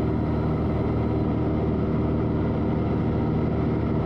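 Cessna 182's single piston engine and propeller running steadily in cruise, heard inside the cabin as an even, unchanging drone.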